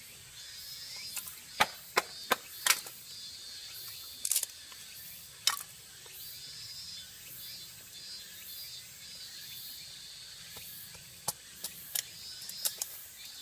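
Scattered sharp wooden knocks and clicks: a quick run of four about two seconds in, single ones around four and five seconds in, and another run near the end. Under them is a steady, faintly pulsing high-pitched background.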